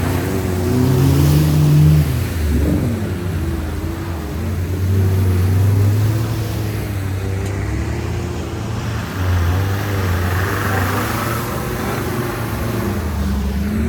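Off-road vehicle engine revving, its pitch rising and falling repeatedly under load.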